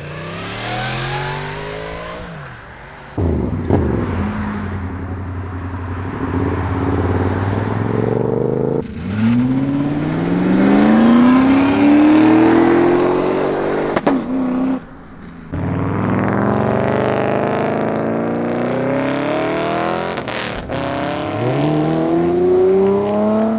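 Car engines revving hard and accelerating away. The engine pitch climbs several times, longest from about 9 to 13 seconds in, with abrupt breaks between runs.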